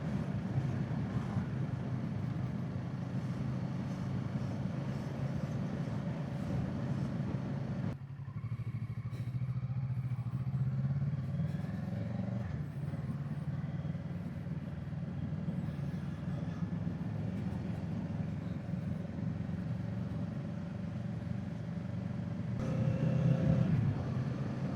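Kawasaki Z650 parallel-twin engine running on the move, with wind noise over the microphone. About a third of the way in the wind noise drops away sharply and the engine note carries on, shifting in pitch, and grows louder near the end.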